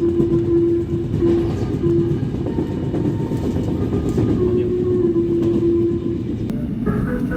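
Seoul metropolitan subway train horn sounding over the rumble and rail clatter of a running train: a long blast ends about a second in, followed by two short toots, and another long blast comes about four seconds in. Near the end, a different set of higher tones begins.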